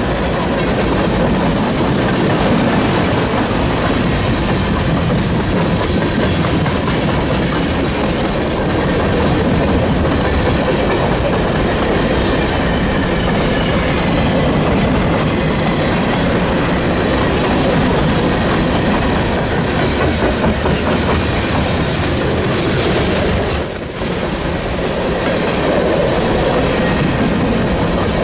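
Freight train rolling past, a loud, steady noise of wheels on rail, with a brief dip in level near the end.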